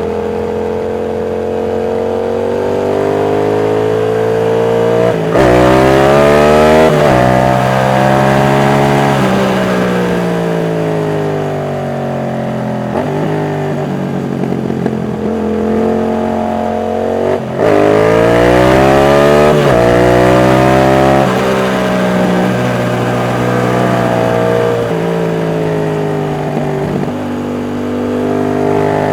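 Yamaha MT-07's CP2 parallel-twin engine under way, accelerating through quick upshifts, with the pitch climbing and dropping at each shift. It pulls hard about five seconds in and again about eighteen seconds in, and eases off between the runs.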